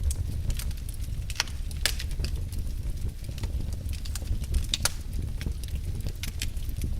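Wood fire in a fireplace crackling: irregular sharp snaps and pops over a low, steady rumble.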